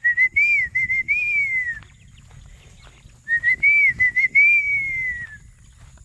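A person whistling the same short phrase twice to call chickens: a few quick up-and-down notes, then a long note that falls away. The phrases are about a second and a half apart.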